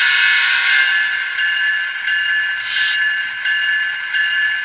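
Sound-decoder recording of a GE Tier 4 GEVO locomotive's air horn played through an N-scale model's small speaker, a steady multi-note chord, with the locomotive bell ringing at the same time, its strokes repeating about every 0.7 seconds from a little over a second in.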